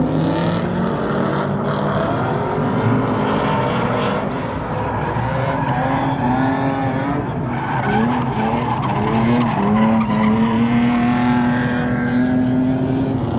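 Drift car engines revving up and down at high rpm, with tyres skidding and squealing.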